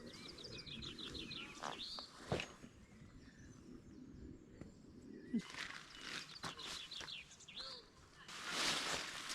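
A small bird singing: a quick run of high repeated chirps near the start, and again about two-thirds of the way through. Between them come a few sharp knocks, and near the end a short burst of rustling.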